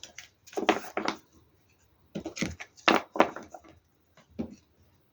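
Oracle cards being handled and laid out on a table: short papery rustles and slaps in a few quick clusters with quiet gaps between.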